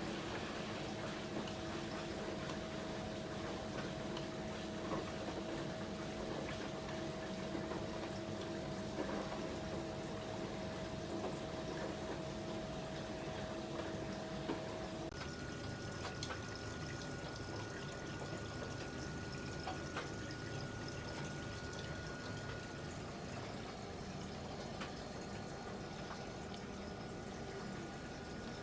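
Panasonic NA-VX9900 front-loading drum washing machine running, with water pouring and sloshing in the drum. Steady throughout, with a faint steady whine that jumps to a higher pitch about halfway through.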